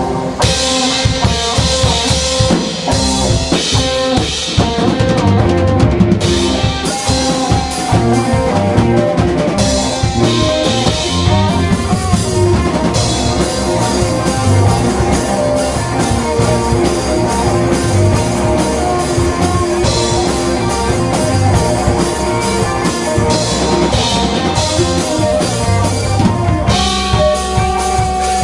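Rock band playing live: drum kit, electric guitars and bass guitar together, at a steady driving rhythm.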